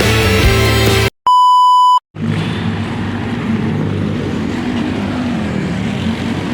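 Background music cuts off about a second in, followed after a short gap by a single electronic beep tone lasting under a second. A steady rushing noise with a low hum then runs on.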